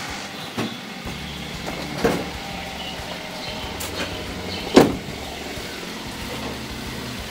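A 2012 Toyota Avanza's petrol four-cylinder engine idling steadily, just started. Several knocks come as the bonnet is released and propped open, the loudest about five seconds in.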